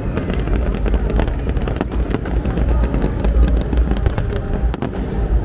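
Fireworks going off: a dense run of crackling pops and bangs over a continuous low rumble, with one sharper crack near the end.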